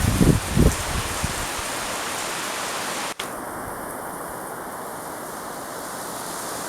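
Heavy rain falling, a dense steady hiss, with a few low thumps in the first second. The sound drops out briefly about three seconds in, then the hiss carries on.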